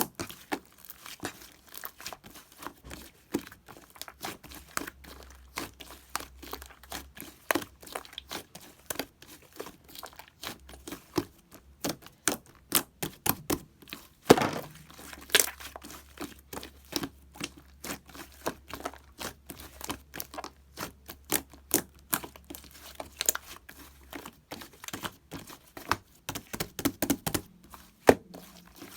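Light-green slime being squeezed, stretched and pressed by hand, giving a dense run of irregular crackling clicks and pops, with one louder pop about halfway through.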